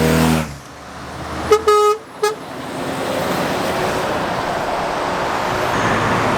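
A vehicle horn sounds three quick toots, the middle one the longest, about a second and a half in. Around it are passing road traffic: a vehicle's engine fading out at the start, then tyre and road noise building steadily.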